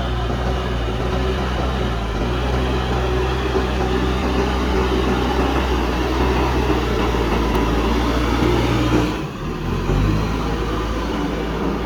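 Diesel engine of a JCB backhoe loader running steadily, with a brief drop in level about nine seconds in.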